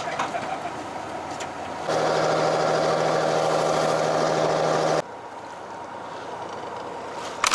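Fishing boat's engine running steadily. A loud, steady blast from the boat's horn or buzzer, about three seconds long, starts about two seconds in and cuts off suddenly.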